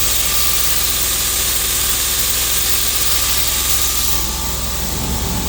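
Mazak CNC machining centre milling a block, a steady loud hiss over the machine's low hum.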